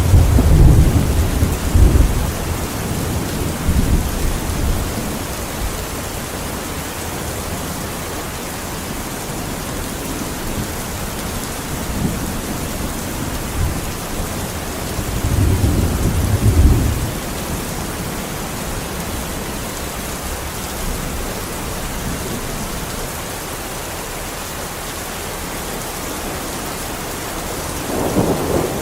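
Steady heavy rain with low rumbles of thunder in the first few seconds, again around the middle, and near the end.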